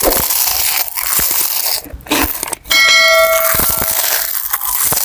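Close-miked crunching and biting of raw vegetables, with many sharp crackles over a loud hiss-like crunch. A single bell-like ringing tone sounds about three seconds in and lasts about a second.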